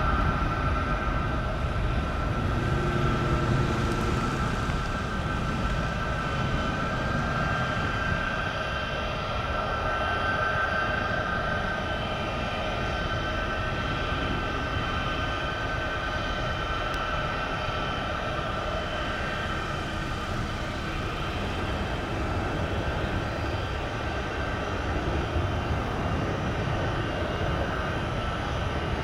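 Jet aircraft engines running steadily: a high whine over a low rumble.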